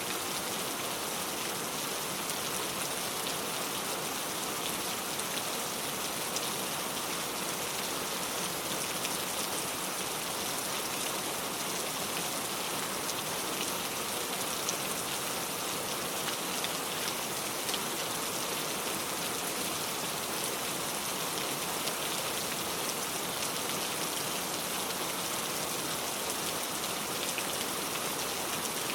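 Steady rain falling, an even hiss scattered with many small drop ticks, with no change in strength.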